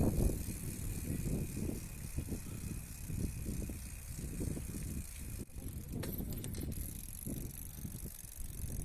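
Bicycle being ridden, its parts rattling and clicking irregularly over a low rumble of wind on the microphone.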